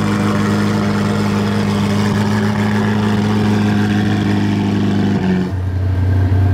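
Ferrari F8 Spider's twin-turbo V8 idling steadily, its idle settling a little lower about five seconds in.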